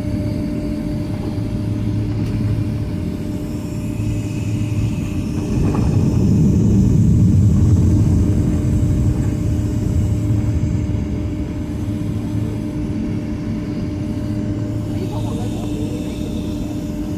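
Cabin noise inside a Boeing 767-300ER on the ground after landing: a steady low hum with a few constant tones, swelling for a few seconds in the middle.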